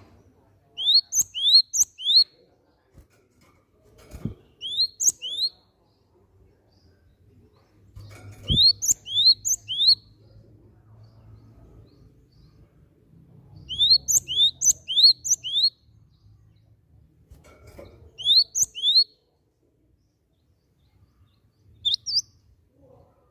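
Cinereous tit (gelatik batu) singing in short bursts of two to four quick, rising whistled notes, about six bursts with pauses of a second or more between them.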